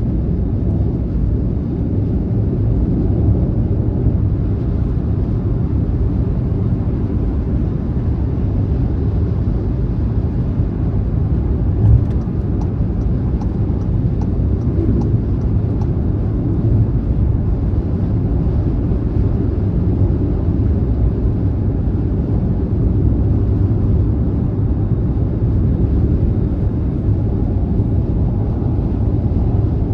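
Car driving on a motorway: steady low rumble of tyre and engine noise. There is a single thump about twelve seconds in.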